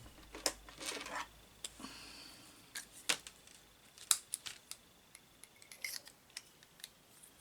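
Hands handling a card and linen thread on a craft desk: a scattering of short, sharp clicks and taps with a few soft rustles as the thread is wrapped round and finished off.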